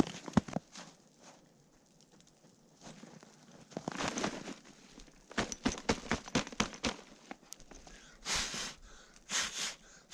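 Irregular sharp knocks with crunching, scuffing noise between them, and a quick run of knocks about halfway through.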